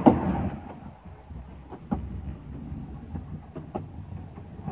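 Train running along the track, heard from inside an open-sided carriage: a steady low rumble with a few sharp clicks and knocks.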